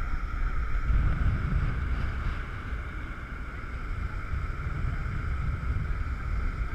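Jet boat under way: its engine and jet drive run with a steady high hum, while wind buffets the camera's microphone with a fluctuating low rumble.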